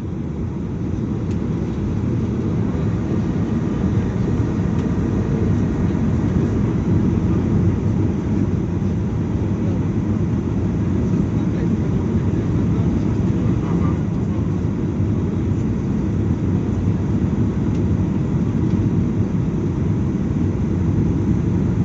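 Boeing 737-800 airliner heard from inside the cabin: a steady, loud low rumble of engines and airflow.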